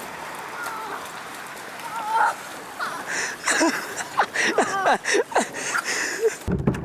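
Steady rain hiss with people's voices calling out over it. Near the end it cuts abruptly to wind buffeting the microphone.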